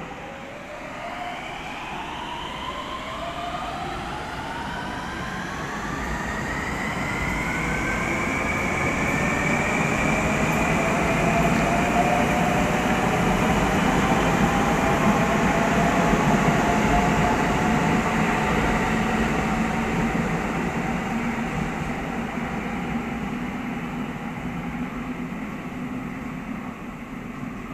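Electric train accelerating away, its traction motors giving a whine that rises in pitch over about ten seconds and then levels off. The sound swells in loudness and then fades as the train draws away.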